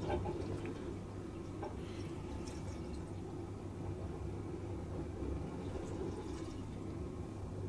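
Bosch dishwasher drain pump running steadily, pumping water out during the service-mode test cycle: a constant hum with water sounds and a few faint drips.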